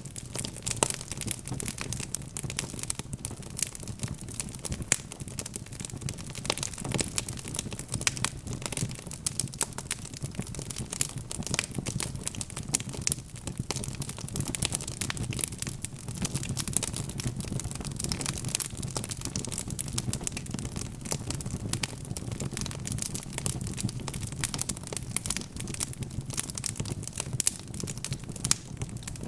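Wood fire crackling in a fireplace: many irregular sharp pops and snaps from burning logs over a low, steady rumble of the flames.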